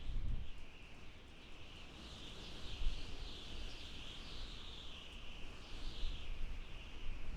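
Desert wind howling: a high whistling tone that wavers up and down in slow swells, over a low gusty rumble of wind.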